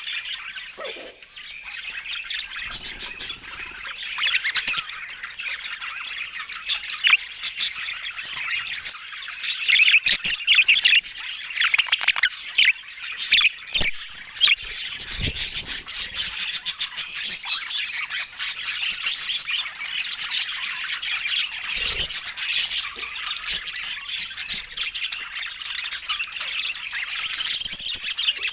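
Budgerigars chattering and squawking without pause, a dense run of rapid high chirps and warbles, with a couple of brief low thumps along the way.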